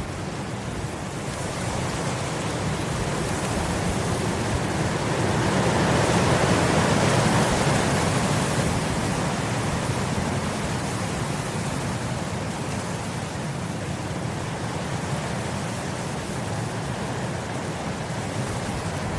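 Wind blowing across grass, a steady rushing that swells in a gust about six to eight seconds in and then eases off, with low rumble from wind on the microphone.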